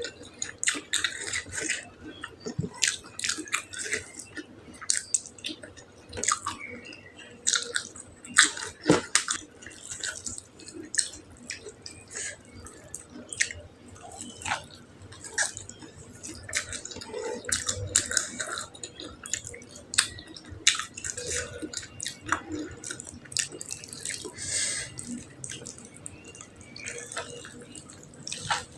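Close-up eating sounds: wet chewing and lip smacking, with many irregular sharp clicks and smacks.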